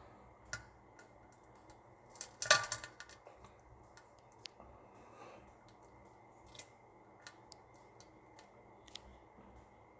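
A scatter of sharp clicks and snips, with a quick dense cluster of them about two seconds in, over a faint steady background.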